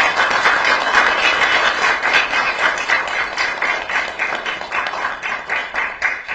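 Applause from a roomful of people, mixed with many rapid camera shutter clicks, fading out near the end.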